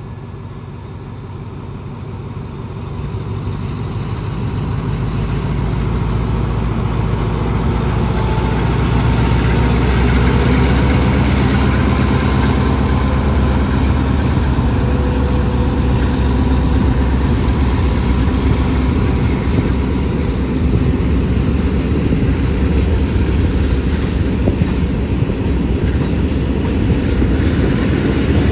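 Diesel locomotive pulling a passenger train away from the station. The rumble builds over the first several seconds as it gathers speed, with a faint rising whine. Then comes the steady rolling noise of the carriages passing close by.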